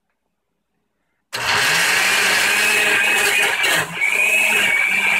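Electric kitchen blender switching on abruptly about a second in and running at full speed with a steady high whine, blending a mix of food items; its sound dips briefly near the end, then picks up again.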